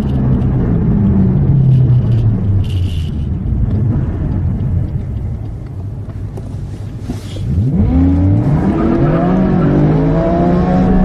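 BMW sports car engine running at a low, steady rumble, then from about 8 seconds in accelerating hard, its pitch climbing, falling back at a gear change and climbing again.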